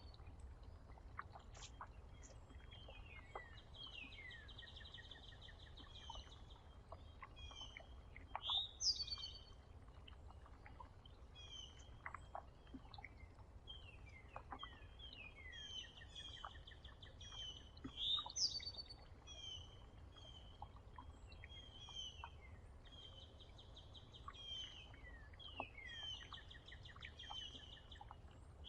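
Several songbirds singing and calling around a feeder, with a repeated trill about two seconds long and loud sweeping whistled calls standing out about 8, 18 and 28 seconds in, over a steady low rumble.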